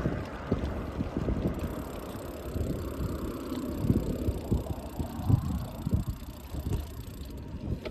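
Bike rolling along a road: a steady low rumble with many small irregular rattles and knocks, and wind on the microphone.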